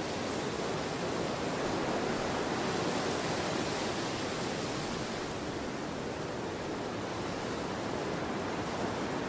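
Autumn storm wind blowing hard, a steady rushing noise that swells slightly a couple of seconds in.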